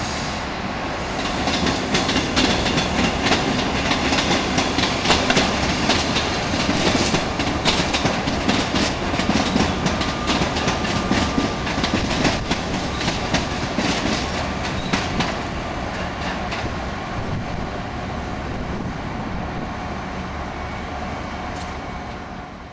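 Electric suburban train passing close, its wheels clicking rapidly over rail joints and points for most of the pass, settling into a steadier running noise for the last few seconds.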